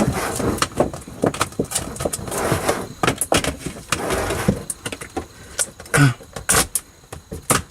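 Sound deadener sheet being handled and pressed into a car's roof: a run of short clicks and rustling, with a heavier thump about six seconds in.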